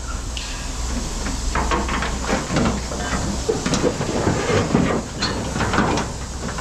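Scrap metal clattering and knocking as it is handled, with a hiss, over a low steady machine hum that stops about two and a half seconds in.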